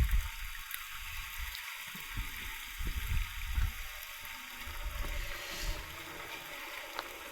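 Steady heavy rain falling, an even hiss, with a few low thumps scattered through it.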